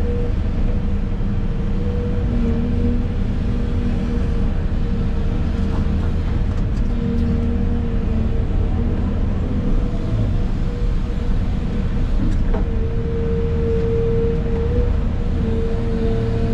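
Excavator's diesel engine and hydraulics running, heard from inside the cab: a steady low drone with a humming tone that comes and goes several times.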